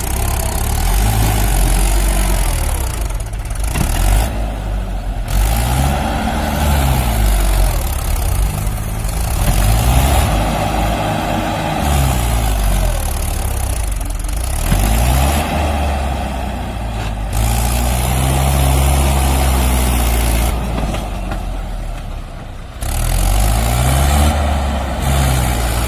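Vehicle engine revving up and dropping back again and again, about every four seconds, over a steady low rumble.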